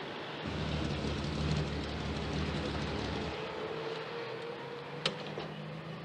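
A car engine running with a steady low hum, which drops away after about three seconds, then a single sharp knock about five seconds in.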